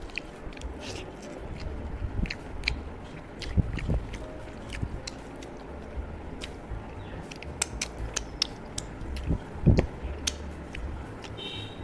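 Chewing and wet mouth sounds of a person eating rice mixed with jhinge posto by hand: irregular smacking clicks with a few heavier, lower thuds, the loudest a couple of seconds before the end.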